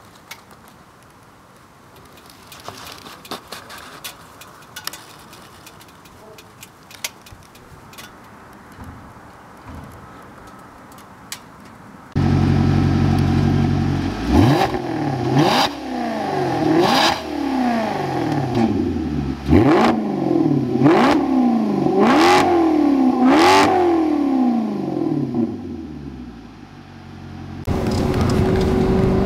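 Faint background noise with scattered clicks, then, about twelve seconds in, a Maserati GranTurismo V8 idling loudly through its MC Sportline exhaust. It is blipped hard about seven times in quick succession, each rev rising sharply and falling back to idle, before the engine settles near the end.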